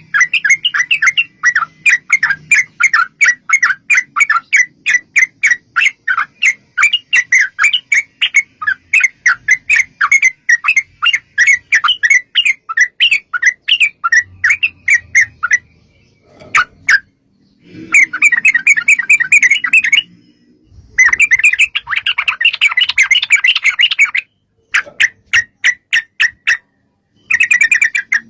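Yellow-vented bulbul (trucukan) calling in fast, long rattling runs of notes, about four or five a second. After a short break about two-thirds of the way through come bursts of denser chatter, then scattered single notes.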